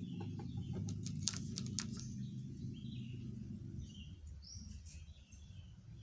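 Small birds chirping in the background, a few short calls after the middle. In the first two seconds there are several sharp clicks and knocks, and a low hum fades out about four seconds in.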